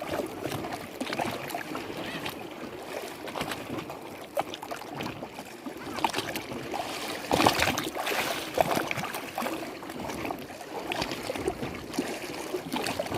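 Lake water lapping and splashing in irregular small surges, with a louder splash about seven and a half seconds in.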